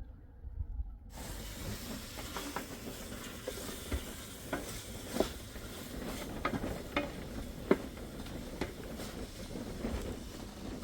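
Food frying in a pan: a steady sizzle with scattered pops and crackles, starting abruptly about a second in.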